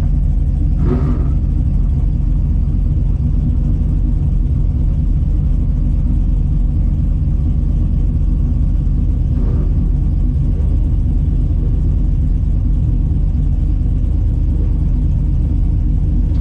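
Big-block V8 of a Mopar Barracuda drag car running steadily at a constant low engine speed, with no revving.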